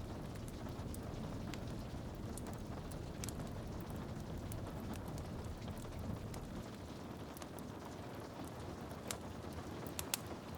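Rain on a window mixed with a crackling wood fire: a steady low hiss with scattered sharp pops and ticks, a few louder ones near the end.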